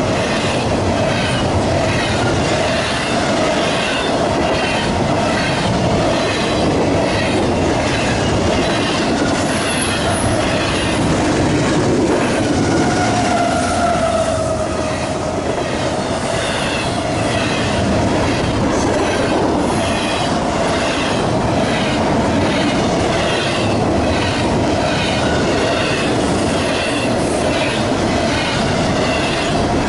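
Freight train cars rolling past close by, the wheels clicking over the rail joints in a steady rhythm, with a brief wheel squeal about halfway through.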